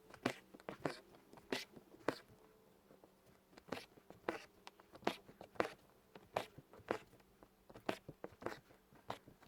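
Irregular light taps and clicks, about one or two a second, of objects being handled by hand.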